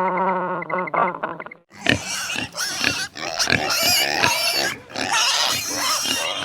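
Pigs squealing and grunting, many overlapping calls starting about two seconds in. Before that, a held, wavering pitched animal call ends within the first second.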